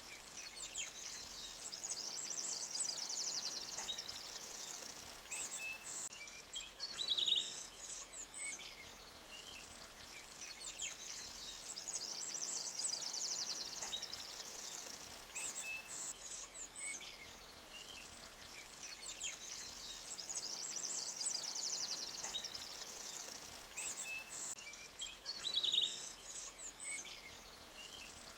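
Forest stream flowing gently under birdsong: fast high trills and short chirps, the same bird phrases coming round about every 18 seconds.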